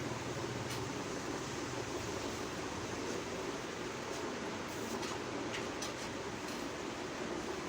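Steady background noise, even and unchanging, with a few faint clicks a little after the middle.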